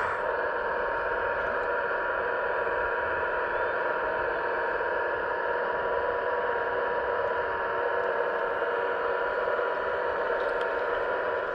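Scale RC construction machine running: a steady mechanical whine over a hiss.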